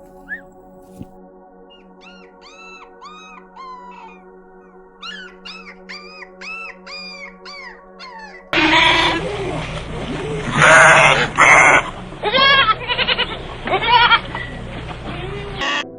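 Animal calls over steady background music: a run of short, repeated arching cries, then, about halfway through, a much louder and rougher stretch of calls that stops just before the end.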